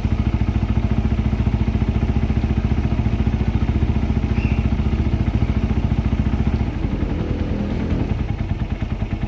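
Suzuki Satria FU's single-cylinder four-stroke engine idling steadily through an aftermarket WRX exhaust after a cold start, a fast even popping, with a slight unevenness in the idle after about seven seconds.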